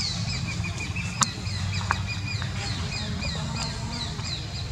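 Birds chirping in quick series of short, high, falling notes, several a second, over a steady low rumble, with two sharp clicks partway through.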